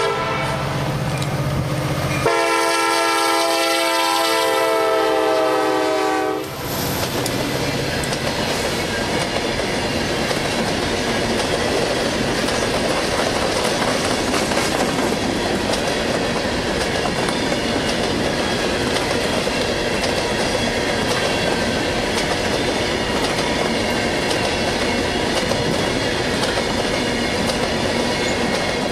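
CSX freight locomotive sounding its air horn in one long blast from about two seconds in to about six seconds in, then a long string of freight cars rolling past close by, with steady rumble and clickety-clack of wheels over rail joints.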